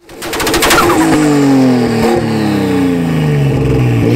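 Car engine revving hard, with a quick run of sharp pops in the first second, then its pitch falling steadily for about three seconds as the revs drop.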